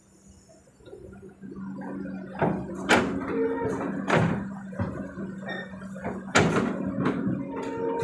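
Kobelco SK200 excavator at work loading a dump truck: a steady engine hum builds up after the first second or two. Over it come about five sharp knocks and clanks, spread unevenly, as the bucket and its load strike the steel.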